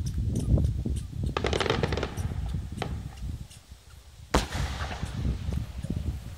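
Aerial fireworks bursting in quick succession over a low rumble, with a patch of fine crackling about a second and a half in. After a short lull, a single sharp loud bang comes a little past four seconds.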